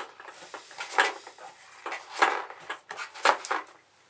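Ping-pong balls being loaded into a corrugated plastic (Corex) tube magazine: several light clicks and knocks, about one a second, as the balls are pushed in and handled.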